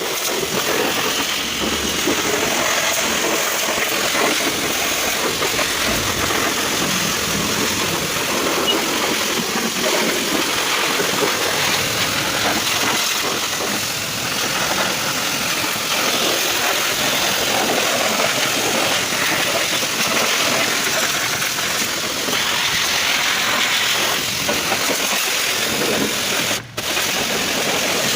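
High-pressure washer running, its water jet spraying in a steady rush, with a brief cut-out near the end.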